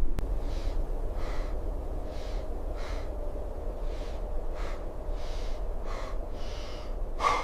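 A person panting heavily, about ten hard breaths in quick succession, with a louder gasp near the end, over a steady low rumble.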